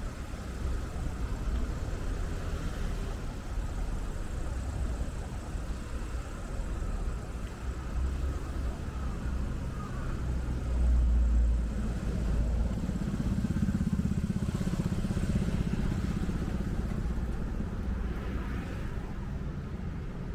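City street traffic heard from a moving bicycle, with wind rumbling on the camera's microphone. A louder surge comes about halfway through, then a vehicle's engine drone passes close for several seconds.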